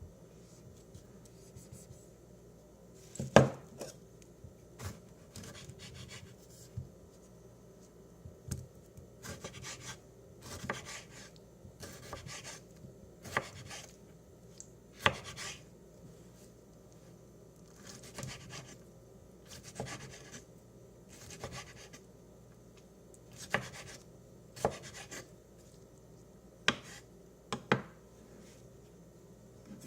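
Knife chopping food on a cutting board in irregular strokes: short runs of soft cuts with scattered sharper knocks, the loudest about three seconds in.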